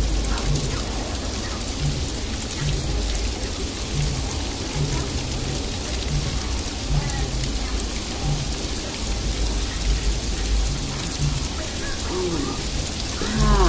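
Sleet falling and pattering on surfaces as a steady hiss, over a continuous low rumble.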